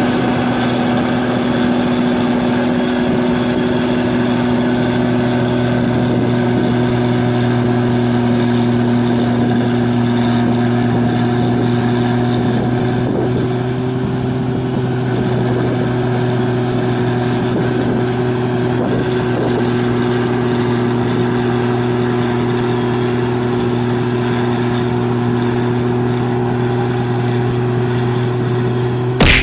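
New Holland 8060 combine harvester's engine running steadily at an even pitch.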